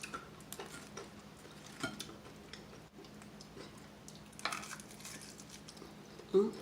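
Close-miked eating of crispy fried chicken wings: scattered crunches and crackles of the breaded skin, with a denser crackly stretch about halfway through. A brief, louder low sound comes near the end.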